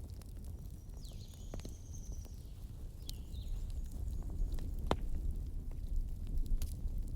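Wood fire in a fireplace crackling, with irregular sharp pops over a steady low rumble of the flames and a few brief high whistles.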